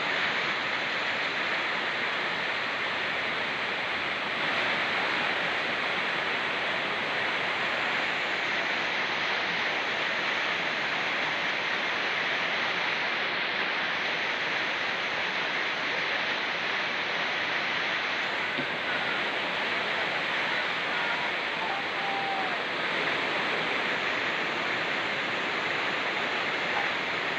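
Rain falling together with a fast-flowing mountain river, making a steady, even rush of water.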